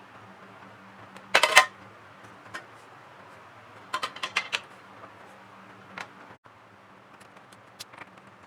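Small hard parts and tools clicking and clattering as a PS4 Pro is worked on by hand, over a low steady hum. There is a loud burst of clatter about a second and a half in, a quick run of clicks around four seconds, and a single click near six seconds.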